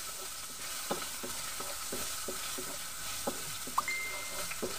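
Ginger sautéing in a wok: a steady sizzle, with a spatula scraping and tapping against the pan in irregular strokes as it is stirred.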